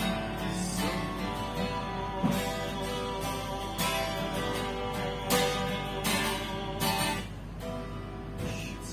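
Guitar strumming chords, with no singing. The louder strokes come every second or so.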